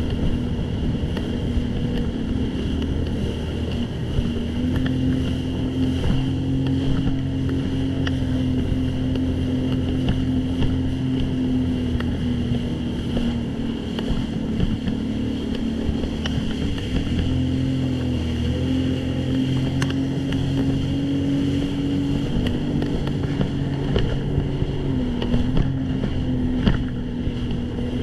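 Jet ski engine running at a steady cruising speed. Its pitch holds even, with a couple of brief dips in the second half.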